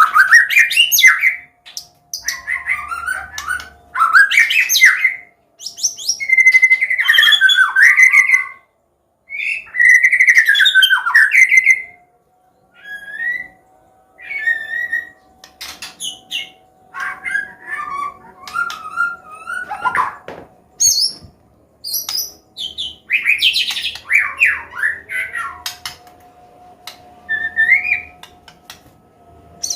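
White-rumped shama (murai batu, Medan type) singing a loud, open 'combination' song: phrases of rapid, varied whistles and chattering notes that glide up and down, in bursts of one to two seconds with short pauses, the phrases growing shorter and softer in the second half.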